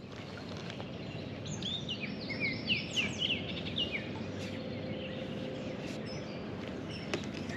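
A bird calling: a quick series of short high chirps, each falling in pitch, for a couple of seconds, over steady outdoor background noise.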